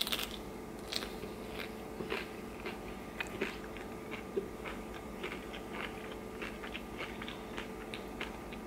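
A person chewing crunchy food close to the microphone, most likely a hard taco shell, giving irregular crisp crunches a few times a second.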